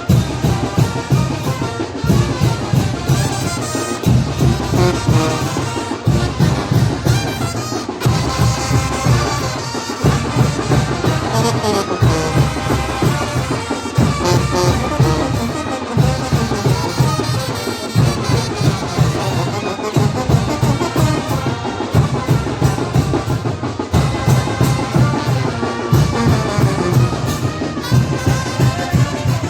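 Mexican banda de viento (brass wind band) playing a chinelo dance tune: brass melody over a steady, driving bass drum beat of about two strokes a second.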